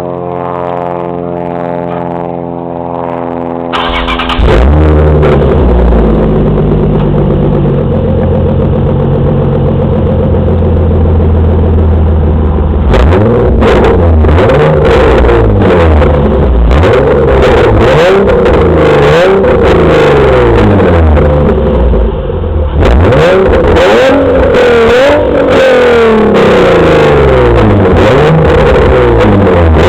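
Nissan 350Z's 3.5-litre VQ35HR V6 running through a Bassani exhaust with AAM test pipes in place of the catalytic converters. It idles with a steady drone, turns much louder about four seconds in, then is revved again and again in quick blips from about halfway on.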